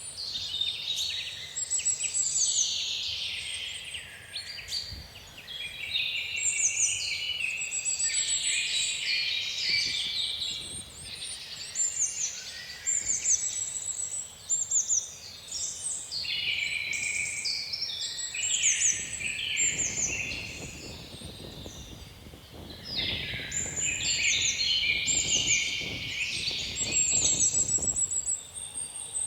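Several songbirds singing at once in a dense, continuous chorus of overlapping trills and chirps. Gusts of wind add a low rumble during the last third.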